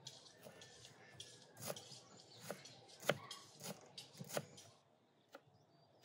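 A series of sharp knocks, about one every two thirds of a second, stopping about four and a half seconds in.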